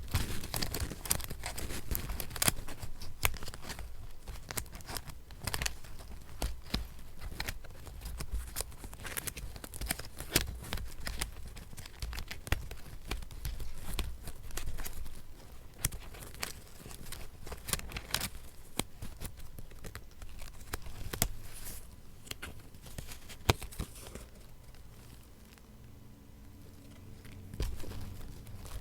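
Paper being handled, torn and crinkled for a collage journal: a dense run of small rustles, rips and crackles, dropping off and getting quieter for a few seconds near the end.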